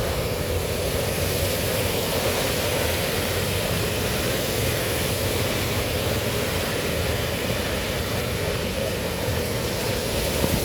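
Heavy rain pouring down steadily in an even, unbroken wash of noise.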